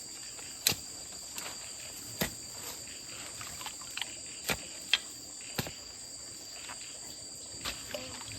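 Steady high-pitched insect chorus, with several sharp knocks scattered through it.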